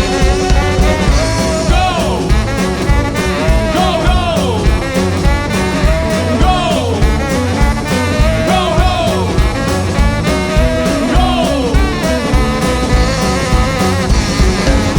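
Live rockabilly band playing an instrumental break: a lead guitar line with pitch bends, repeating in phrases about every two and a half seconds, over a steady drum and bass beat.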